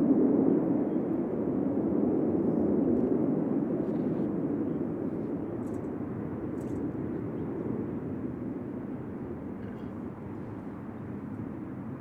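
Jet noise from a Blue Angels F/A-18 Super Hornet, a steady rushing roar that fades gradually as the jet moves away.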